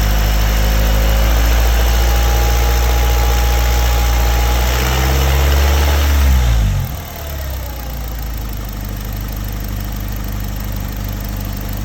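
Honda D17A2 1.7-litre four-cylinder engine held at raised revs for about six seconds, rising slightly near the end, then dropping back to a steady idle. The revs are held for a vacuum test on a suspected restricted exhaust.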